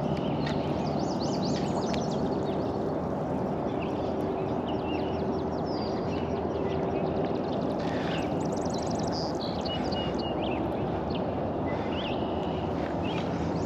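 Birds chirping on and off, with a fast high trill about eight seconds in, over a steady low rush of outdoor background noise.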